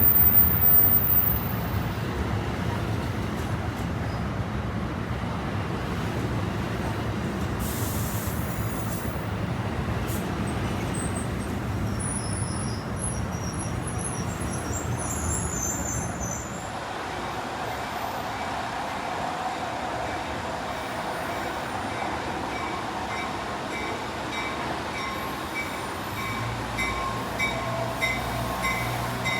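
Passenger train running past on the rails, a steady rumble of wheels and cars that eases off about halfway through. There is a short hiss of air about eight seconds in, and thin high-pitched tones in the later half.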